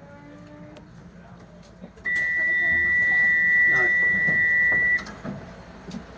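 A single steady, high electronic tone lasting about three seconds, starting about two seconds in: a DLR train's door-closing warning as it prepares to leave the platform.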